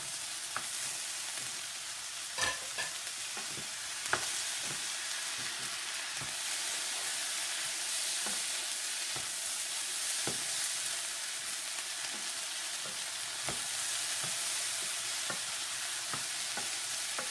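Shrimp fried rice with pineapple sizzling steadily in a frying pan while it is stirred and turned with a wooden spatula, which scrapes and taps against the pan now and then.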